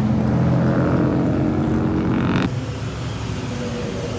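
Car engines running in slow passing traffic: a steady engine drone that changes abruptly about two and a half seconds in to a quieter, different engine sound.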